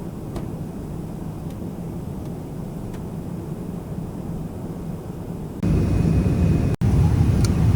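Boeing 777 cabin noise: the steady low rumble of the engines and airflow, which jumps suddenly louder about two-thirds of the way through.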